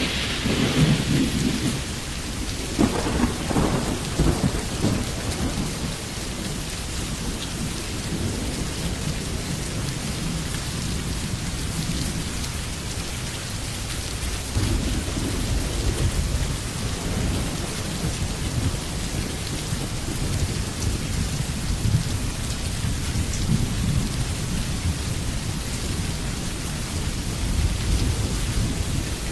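Steady rain falling, with low rolling thunder rumbling at intervals, stronger in the first few seconds and again near the end.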